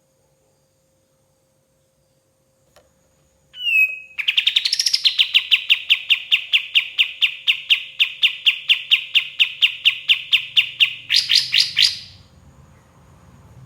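Kapas tembak songbird calling: a short rising note, then a long, even run of sharp chirps at about five a second, ending in a quicker, higher flurry before stopping suddenly.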